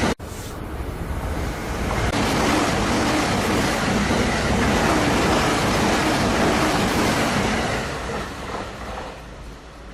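E259 series Narita Express electric train passing at about 130 km/h: a rushing noise of wheels and wind swells over about two seconds, stays loud, then fades away near the end.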